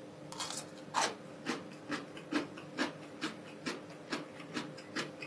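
A person chewing crunchy pickled cucumber close to a clip-on microphone, with short crisp crunches about two a second.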